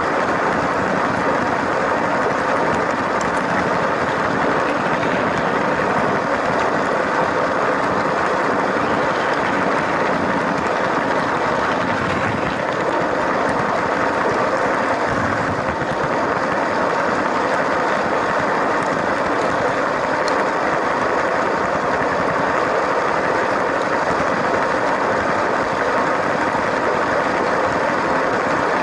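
LEGO train running steadily along its track, a continuous even mechanical noise from its small electric motor and plastic wheels with no pauses or changes.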